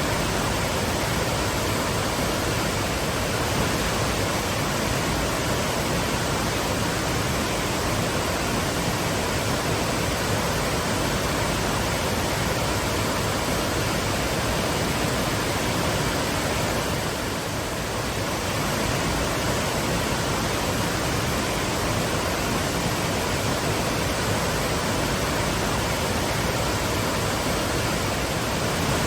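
Waterfall: water falling and splashing in a steady, full rush, easing slightly for a moment about halfway through.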